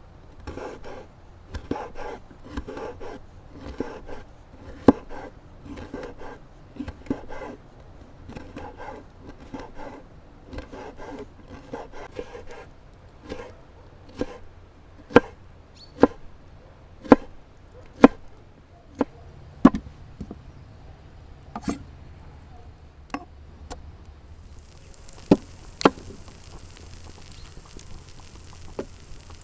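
Knife cutting food on a wooden board: first a run of scraping, slicing strokes with light knocks, then separate sharp chops about one a second. A steady hiss comes in near the end.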